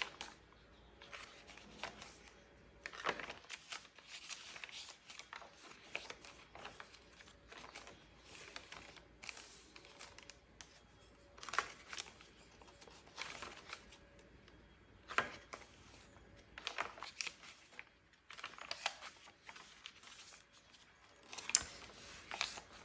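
Stiff paper pages of a hand-bound journal being turned one after another, each turn a short rustle or flap every second or two.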